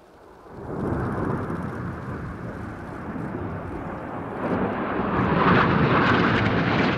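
Red Arrows BAE Hawk T1 jets flying past, their turbofan noise rising sharply about half a second in and swelling to its loudest over the last couple of seconds, then dropping off abruptly at the end.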